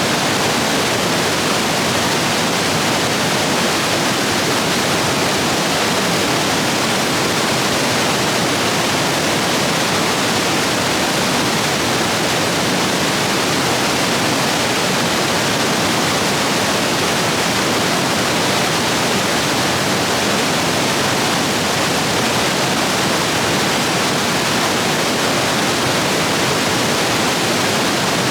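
Rapids in a stream swollen by heavy rain: a steady, loud rush of water with no breaks.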